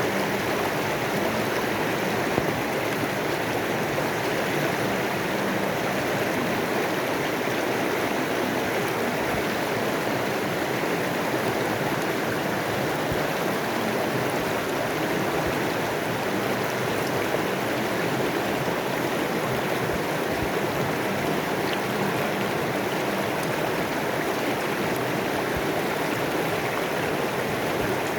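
A river flowing steadily, an even wash of water noise that holds at the same level throughout.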